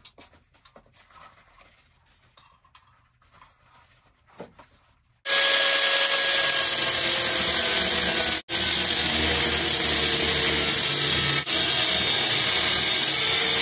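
Angle grinder with a cut-off disc cutting through a steel frame: a loud, steady whine with grinding noise. It starts suddenly about five seconds in, after a few seconds of near quiet with small handling sounds, and drops out for an instant a few seconds later before carrying on.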